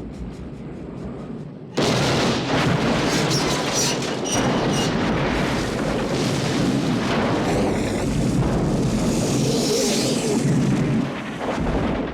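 A sudden loud boom about two seconds in, followed by a long, dense rumbling blast that fades near the end, with music underneath.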